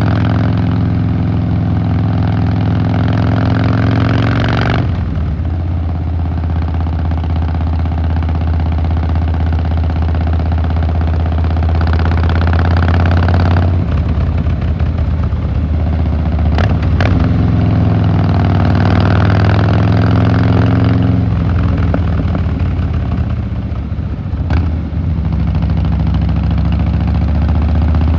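Harley-Davidson Fat Boy Lo V-twin engine and exhaust running under way. The engine note is steady, and the sound drops back abruptly about 5, 14 and 21 seconds in before building again. A few short clicks come around 17 and 25 seconds in.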